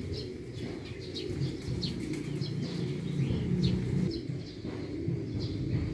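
Birds calling: many short high chirps, with low dove-like cooing underneath.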